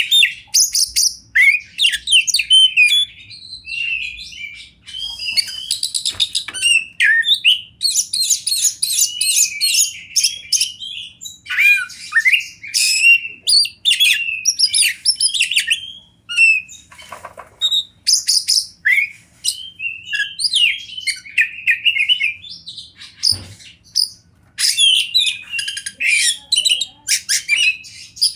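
Oriental magpie-robin (kacer) singing a long, varied song of quick whistles, trills and chattering phrases, with short pauses between bursts.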